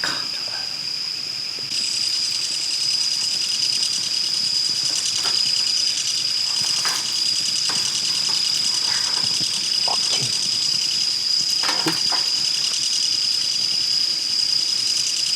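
Insect chorus in woodland: a steady, high, pulsing buzz that grows louder about two seconds in, with a few faint clicks and knocks under it.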